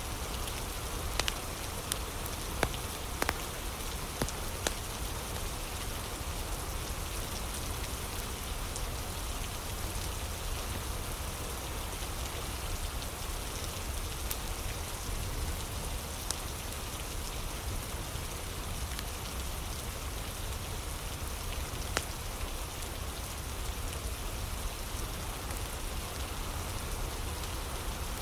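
Steady rain falling, with a few sharp pops of a crackling wood fire, several in the first few seconds and one more later on.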